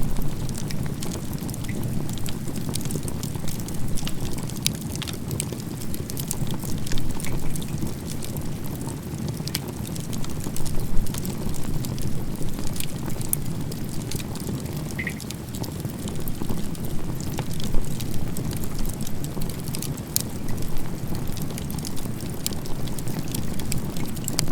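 Firewood burning in a crib-stacked (igeta-gumi) bonfire: scattered sharp crackles and pops over a steady low rumble.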